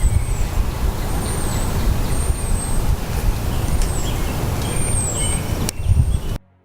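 Loud outdoor rumble with small birds chirping over it in short, high, gliding whistles, several times. The sound cuts off suddenly near the end.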